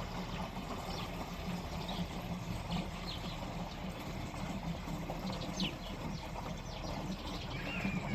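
Birds chirping in short, scattered calls over a steady outdoor hiss.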